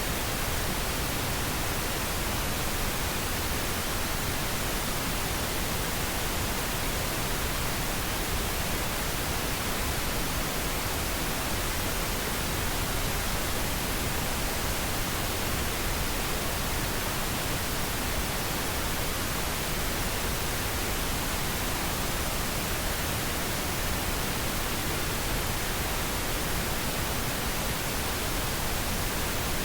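Steady white noise: an even, unchanging hiss spread across the whole range of pitch, with no other events.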